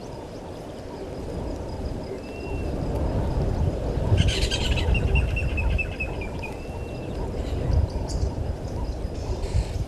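Wild birds calling: a few short whistled notes, and a rapid chattering trill about four seconds in, over a steady low rumble.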